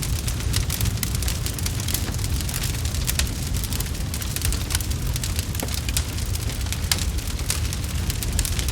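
Fire in a fireplace crackling, with frequent sharp irregular pops over a steady low rumble.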